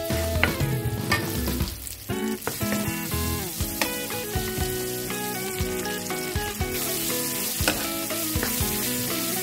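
Garlic and sliced onion sizzling in hot oil in a frying pan, stirred with a wooden spatula, with raw pork slices added near the end. Background music plays underneath.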